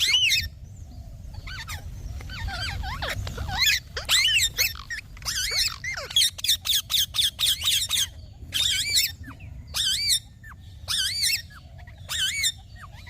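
Pet Indian ringneck parakeet calling in a long run of short, warbling chirps and squawks. The calls are fainter for the first few seconds, then come loud and rapid, several a second, with brief pauses until near the end.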